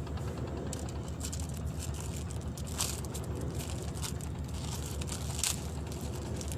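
A steady low rumble with scattered clicks and crackles, and two sharper ticks about three and five and a half seconds in.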